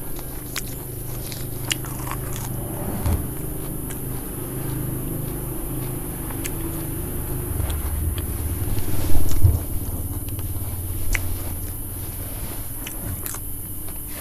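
Close-up eating sounds: chewing a crispy fried spring roll wrapped in fresh leaves, with many small crunches and crackles. A louder run of bites comes about eight to nine seconds in.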